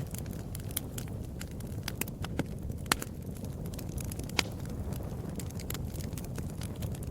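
Wood fire burning: a low steady rumble with frequent sharp crackles and pops, two of them louder, about three seconds and four and a half seconds in.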